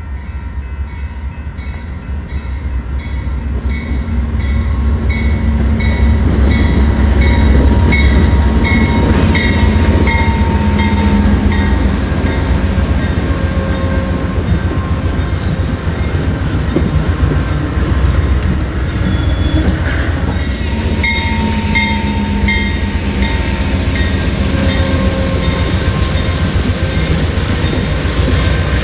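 An Amtrak train passes close by, building up over the first few seconds into a loud, steady low rumble of its GE Genesis diesel locomotives and steel wheels on the rails. A regular ringing of about two strokes a second carries through, clearest at the start and again near the end.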